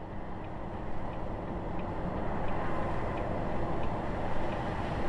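A vehicle's steady engine rumble and road noise, picked up by a dash cam inside the cab while driving. It grows louder over the first couple of seconds, then holds steady.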